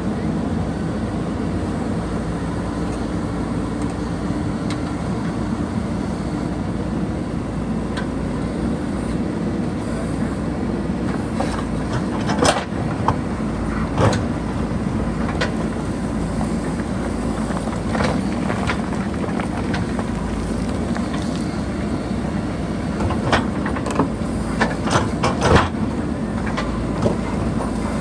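JCB backhoe loader's diesel engine running steadily under work, with scattered sharp knocks and clanks, several in quick succession near the end.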